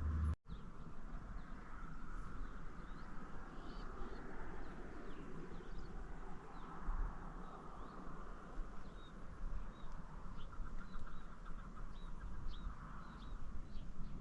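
Small birds chirping, many short scattered calls, over a low steady rumble of wind. A louder low rumble cuts off abruptly about half a second in.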